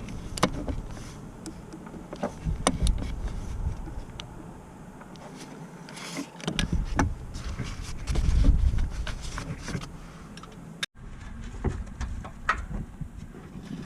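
Scattered clicks and knocks over low rumbling noise, the sound of hand work on a car, with an abrupt cut about eleven seconds in.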